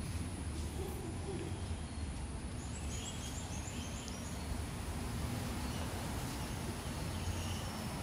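Steady low hum and background noise, with a quick run of about six short, high chirps from a small bird about three seconds in.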